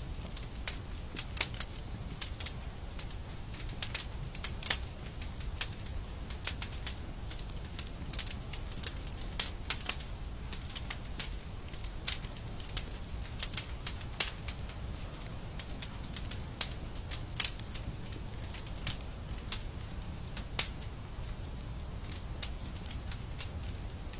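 Wood fire crackling and popping, with sharp irregular snaps several times a second over a low steady rumble of the burning fire.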